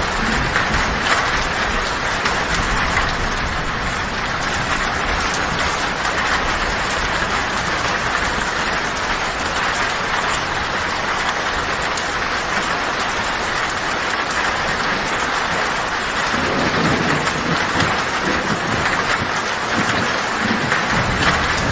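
Heavy rain drumming steadily on a tin metal roof, with a low rumble of thunder rising up about three-quarters of the way through and fading near the end.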